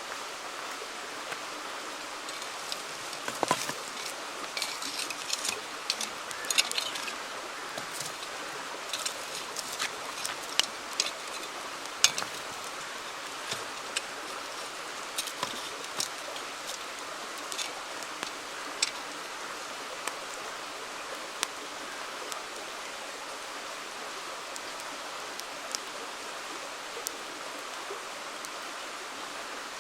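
Wood campfire crackling with sharp pops over the steady rush of a flowing river. The pops come thick and fast through the first two-thirds, then thin out to an occasional snap.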